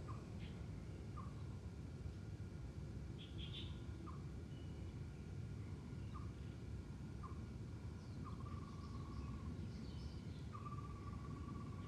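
Night ambience: a bird giving short clear whistled notes every second or two, then two longer drawn-out notes near the end, with a few higher chirps, over steady low background noise.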